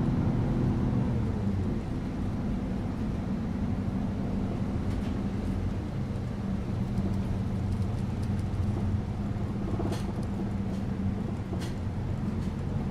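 Riding inside a city bus: the engine hums low and steady over road rumble, easing slightly after the first second or so. A few short clicks or rattles come through, the clearest about ten seconds in and again a second and a half later.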